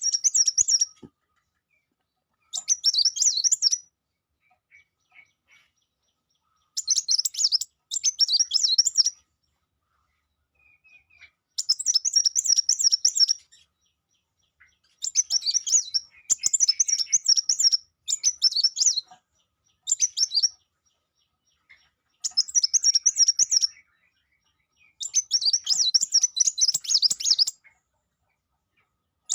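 A sangkrut songbird singing: about eleven quick, high, chattering phrases, each one to two and a half seconds long, separated by short pauses.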